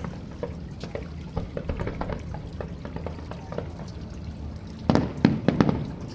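Distant fireworks going off: scattered pops and crackles over a low rumble, with a louder cluster of several bangs about five seconds in.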